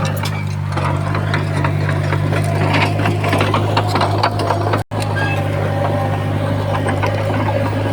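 Diesel engine of heavy earthmoving machinery running steadily with a low hum, with many short clicks and clanks over it; the sound cuts out for an instant about five seconds in.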